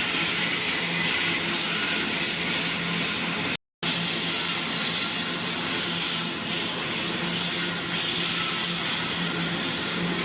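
Coal train running by: a steady rushing noise with a constant low hum underneath. The sound cuts out completely for a moment about a third of the way in.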